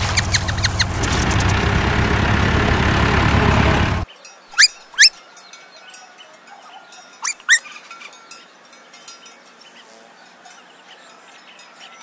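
A loud, steady rumbling noise with a low hum, which cuts off abruptly about four seconds in. It gives way to a quiet outdoor background of birds twittering, with two pairs of sharp, quick rising chirps.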